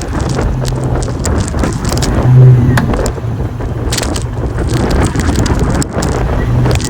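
Motor vehicle driving, a steady engine and road rumble, with a brief, louder low drone about two and a half seconds in.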